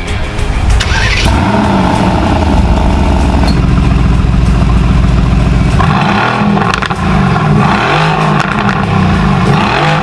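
Mercedes-AMG GT R's twin-turbo V8 starting up about a second in and running at a steady fast idle, then blipped through a series of quick revs rising and falling from about six seconds.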